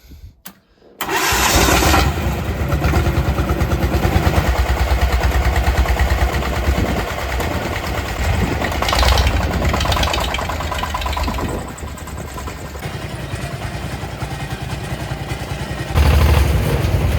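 A small farm tractor's diesel engine, fitted with a decompression lever, starts up about a second in on a newly fitted lithium iron phosphate battery and then runs with a rapid chug. It revs up briefly around nine seconds and again near the end.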